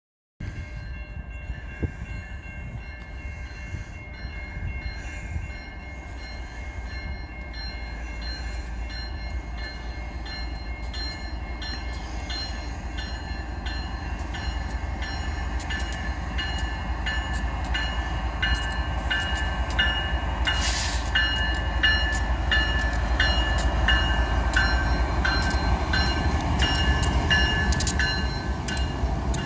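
BNSF freight train approaching and passing, its deep rumble growing steadily louder, with many sharp clicks and a set of steady high tones throughout.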